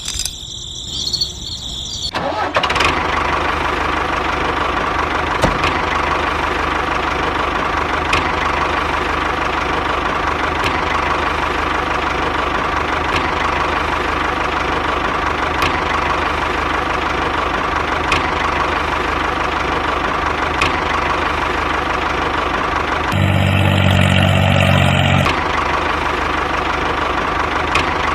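A DIY mini tractor's small motor starts up about two seconds in and then runs steadily with a constant whine. Near the end it turns deeper and slightly louder for about two seconds, then goes back to its steady running.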